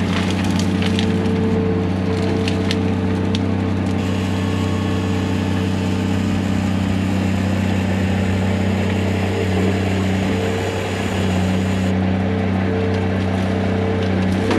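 Heavy diesel engine of land-clearing equipment running steadily, with wood cracking and snapping during the first few seconds.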